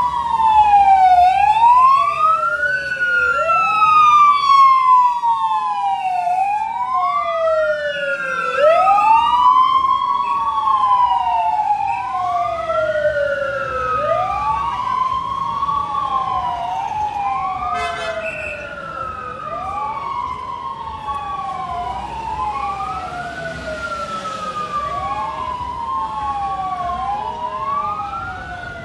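Two fire truck sirens wailing together out of step, each rising and then falling slowly in pitch and repeating every few seconds, growing fainter toward the end.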